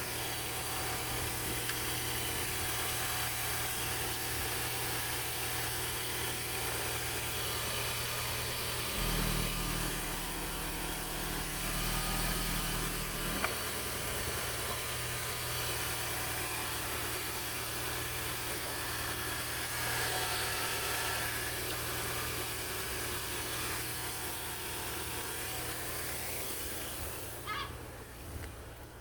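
Ford Mondeo Mk3 2.0 Duratec HE (CJBA) inline four-cylinder petrol engine idling steadily on an engine test. For a few seconds about a third of the way in, its low note shifts, and the sound drops away near the end.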